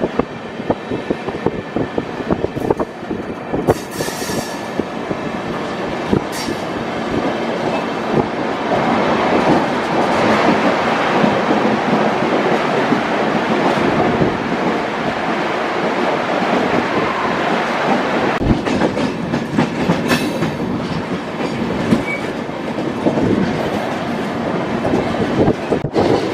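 Passenger train coaches running downhill, heard from the coach doorway: steady wheel-on-rail rumble with rapid clickety-clack over the rail joints. The noise swells louder through the middle while the train is inside a tunnel.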